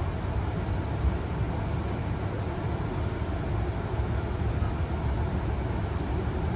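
Steady low rumble inside a Tangara electric train carriage running at speed, its wheels rolling over the rails.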